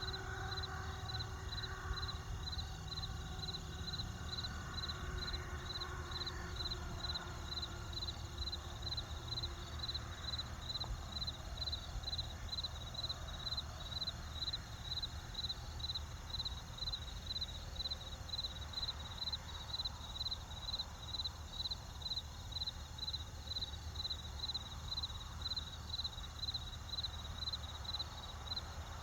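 A cricket chirping steadily in an even rhythm, about two chirps a second, over a low steady rumble.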